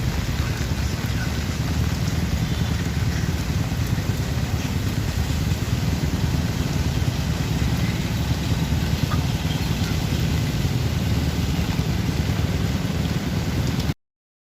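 Steady rain hiss over the low rumble of an idling vehicle engine. The sound cuts off suddenly near the end.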